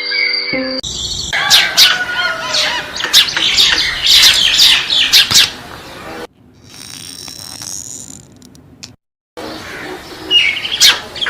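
Birds chirping and squawking in a dense chorus mixed with sharp clicks. The sound cuts off abruptly about six seconds in, gives way to quieter chirping, drops out for a moment, then returns near the end.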